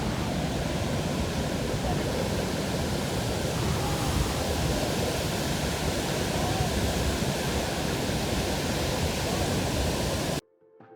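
Steady roar of a large waterfall's water crashing down, cutting off suddenly near the end.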